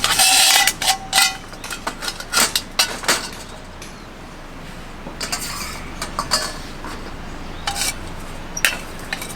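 Dishes and metal utensils clinking and clattering as they are handled, in irregular bursts, busiest in the first three seconds.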